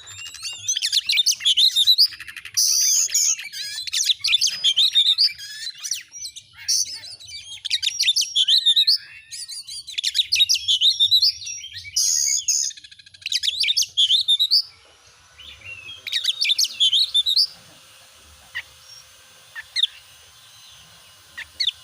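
Oriental magpie-robin (kacer) singing in loud bursts of varied whistles and rapid chattering phrases. The song breaks off about seventeen seconds in, leaving only a few faint chirps.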